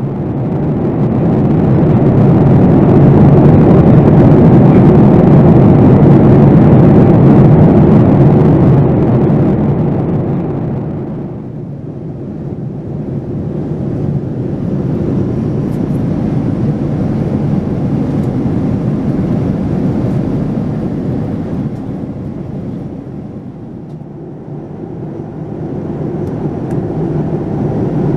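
Boeing 787-9's Rolls-Royce Trent 1000 jet engines heard from inside the cabin: a loud, deep rushing hum. It swells for the first several seconds, eases off about eleven seconds in, dips again later and rises once more near the end.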